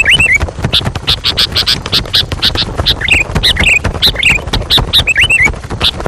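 Birds chirping: a rapid string of short, high calls, several a second, mixed with a few sliding chirps over a rumbling background.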